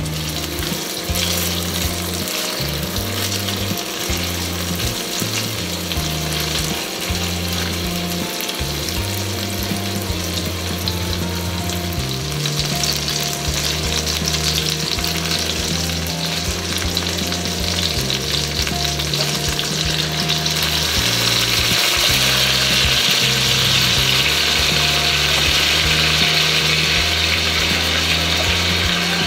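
Chicken pieces sizzling as they sear in oil in a Staub enameled cast-iron frying pan, with a steady hiss that grows louder about two-thirds of the way through. Low background music plays underneath.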